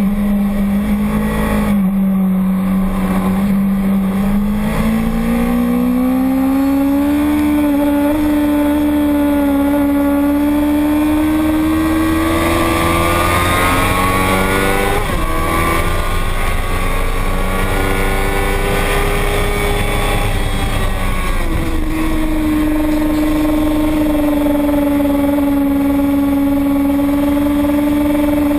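Racing motorcycle engine running hard at sustained high revs. Its pitch climbs slowly, drops sharply about halfway through and again near the three-quarter mark, then settles, with a steady rush of noise underneath.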